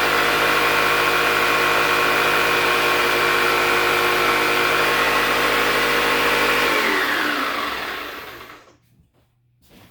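Electric drill running steadily at full speed, then released about seven seconds in and spinning down with a falling whine over about two seconds, followed by a few faint clicks.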